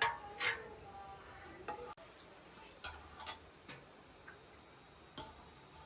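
Scattered short knocks and clicks, the loudest right at the start and about half a second in, with a brief pitched sound at the very start.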